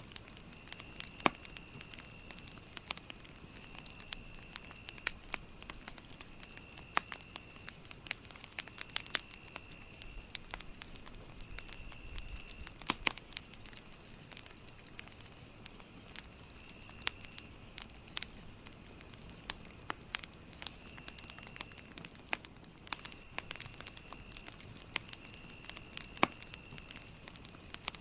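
Campfire crackling, with sharp irregular pops the loudest sounds. Behind it, insects call steadily: a constant high trill, a regular chirp repeating about twice a second, and a lower trill in bursts of about a second every two seconds or so.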